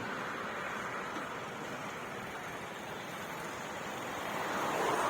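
Road traffic noise as a vehicle passes, a steady rush that swells near the end.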